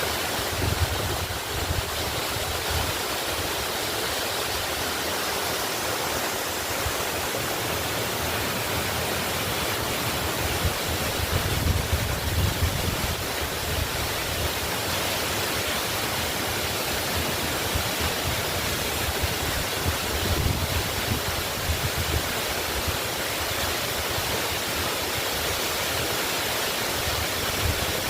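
Waterfall pouring steadily: a constant rushing of falling water.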